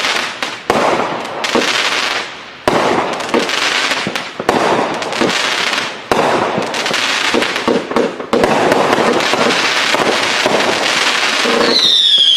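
500-gram consumer fireworks cake firing: a run of sharp shots about every two seconds, each followed by a spell of crackling. A whistle falling in pitch comes near the end.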